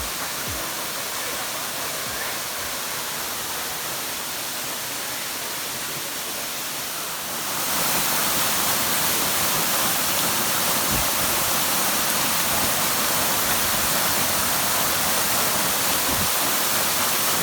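Rushing water of a waterfall, a steady rush that gets louder and brighter about seven seconds in.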